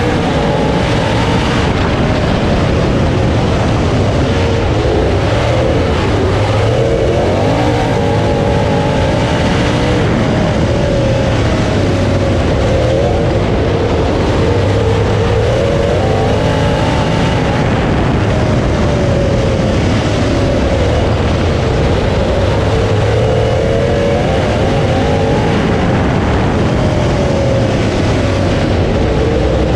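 Dirt late model race car's V8 engine heard from onboard at racing speed, its pitch rising and falling every few seconds as the driver gets on and off the throttle around the oval.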